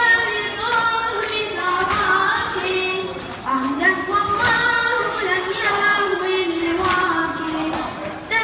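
A reciter's solo voice chanting a latmiya, a Shia lament, in long, high notes that bend and slide from pitch to pitch.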